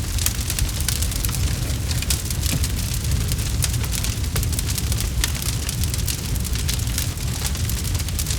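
Campfire burning, wood crackling and popping in many quick, irregular snaps over a steady low rumble of flame.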